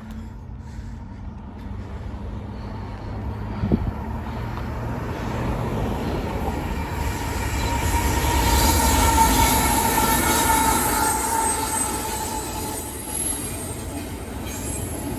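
CN intermodal freight train passing, its low rumble building to a peak about halfway through, with wheels squealing at the loudest part, then easing off. A single sharp knock sounds about four seconds in.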